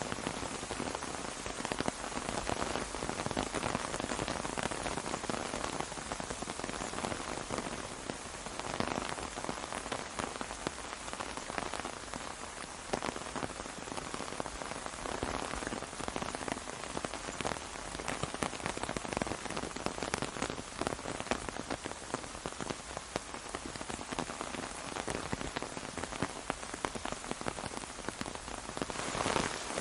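Rain falling on an umbrella: a steady, dense hiss of rain with many close individual drop hits.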